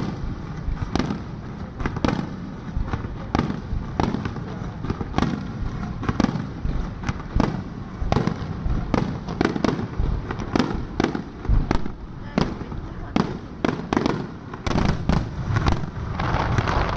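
Aerial fireworks bursting overhead, a steady run of sharp bangs about one or two a second, coming thicker and faster near the end.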